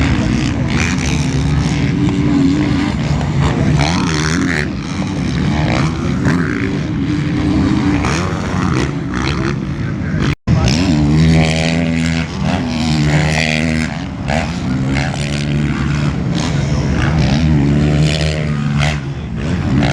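Motocross bikes' engines revving on the track, their pitch rising and falling as they accelerate and shift. The sound cuts out completely for an instant about ten seconds in.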